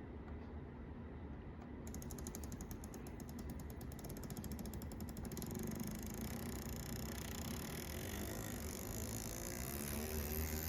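Atlas U25B model locomotive's motor and gearing running with a mechanical gear noise, a fast even clicking for a few seconds about two seconds in; the locomotive is not running correctly.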